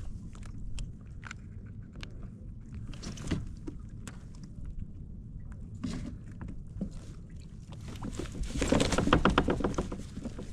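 Scattered knocks and clicks of handling aboard a fishing kayak over a steady low rumble of wind and water. Near the end comes a louder burst of rapid rattling lasting about a second and a half.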